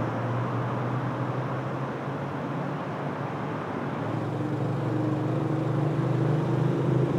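A motor vehicle engine running steadily with a low hum; a higher steady tone joins about four seconds in as it grows a little louder.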